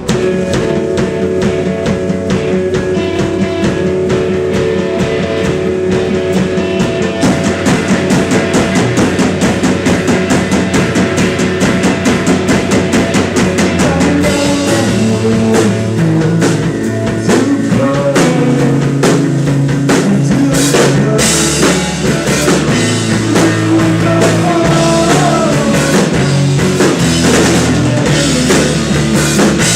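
Live rock band playing a song: drum kit, electric guitars and bass. The bass line gets heavier about halfway through.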